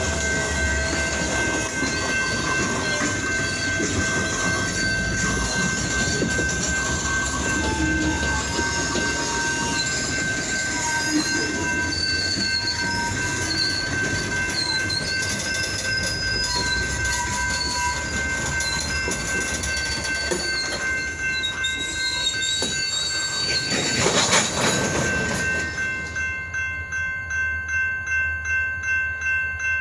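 Freight train moving slowly, with its GP diesel locomotives running and steel wheels squealing against the rails in wavering high tones. There is a loud swell about 24 seconds in, and then the rumble drops to a quieter, pulsing sound as the train comes to a stop.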